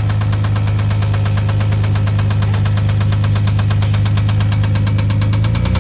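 Car engine idling steadily with a rapid, even ticking knock running over its hum. Its note shifts just before the end.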